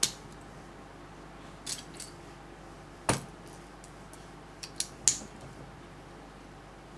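Small plastic LEGO pieces clicking and clattering as they are picked out of a pile and handled: a scatter of sharp clicks, the loudest about three seconds in and a quick cluster around five seconds.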